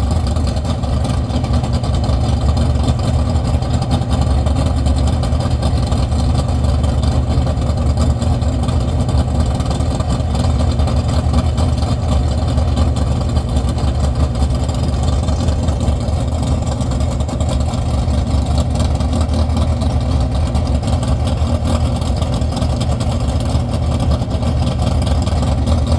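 A vehicle engine running steadily at idle: an even low rumble with no revving.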